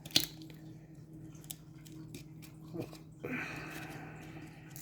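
Hockey card pack being handled and opened: a sharp click just after the start, a few light ticks, then paper-and-foil wrapper rustling and crinkling through the last second and a half, over a steady low hum.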